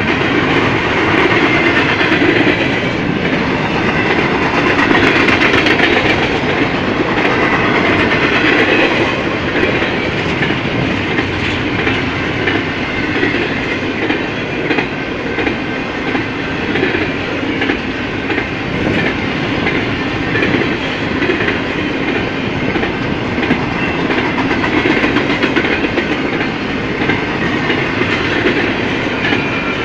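Double-stack intermodal freight train's container-laden well cars rolling past: a steady, loud noise of steel wheels running on the rails, a little louder in the first third.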